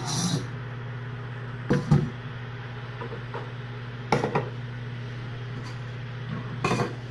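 A few short knocks and clatters of objects being handled, in three brief groups, over a steady low hum.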